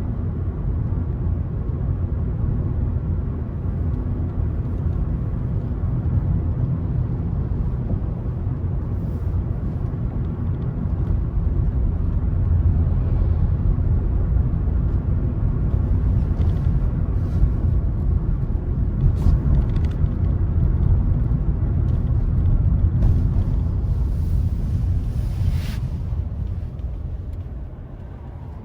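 Car driving along a road: a steady low rumble of road and engine noise, with a few faint ticks, easing off near the end as the car slows.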